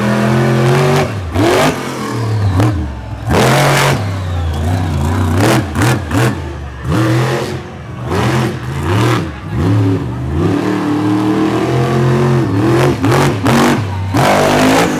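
Monster truck engine revving hard and repeatedly, its pitch climbing and falling over and over, with several sudden loud bangs spread through it.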